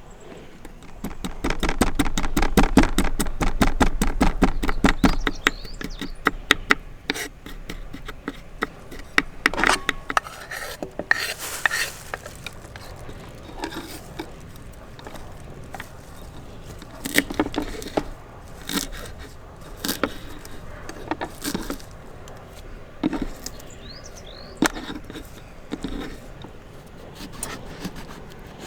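Camp cooking and handling sounds: a fast run of clicks for a few seconds near the start, then scattered clinks and knocks of utensils and dishes.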